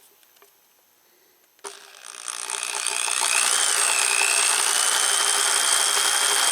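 Electric drill switched on about a second and a half in, spinning up over a second and then running at a steady speed with a high whine, turning the input of a motorcycle's gear-driven mechanical tachometer.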